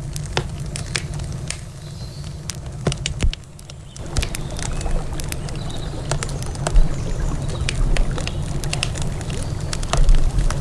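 Wood campfire crackling with frequent sharp, irregular pops and snaps, over a steady low rush of river water. Everything drops briefly and goes quieter a little over three seconds in, then comes back.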